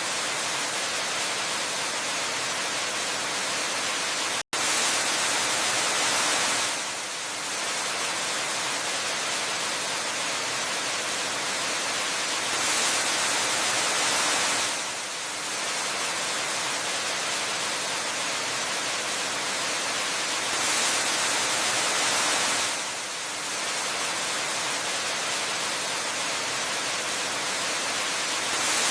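Waterfall rushing, a steady hiss of falling water that swells and eases slowly every few seconds. It cuts out for an instant about four and a half seconds in.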